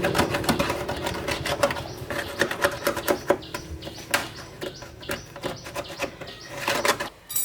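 Irregular, quick clicks and metallic taps, several a second, as of mechanical work on metal parts, over a faint steady hum.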